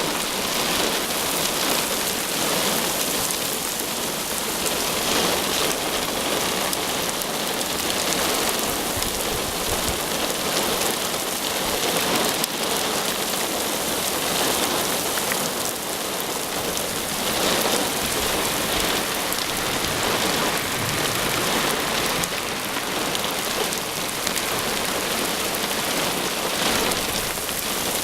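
Heavy rain falling steadily in a thunderstorm, a dense hiss that swells and eases slightly.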